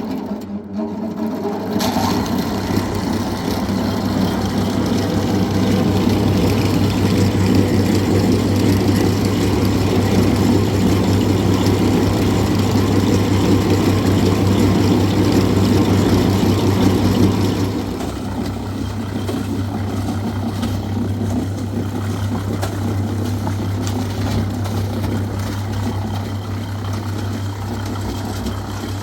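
An engine running steadily with a low hum. It starts about two seconds in and drops to a quieter, steady level about two-thirds of the way through.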